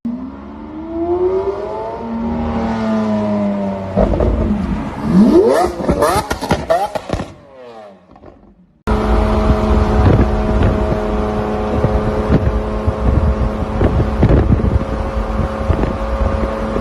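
Lamborghini Aventador's 6.5-litre V12 through a Gintani aftermarket exhaust, revving: rising sweeps, then quick sharp blips about five seconds in. After a brief break, the engine runs loud at a steady pitch from about nine seconds in.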